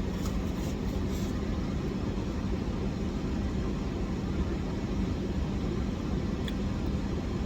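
Steady low rumble with a constant hum underneath. There is faint crunchy chewing of fried food in about the first second.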